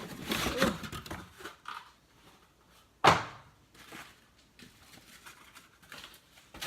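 Cookware being unpacked: packaging rustling and crinkling, with one sharp knock about three seconds in as a piece is handled. The rest is faint handling noise.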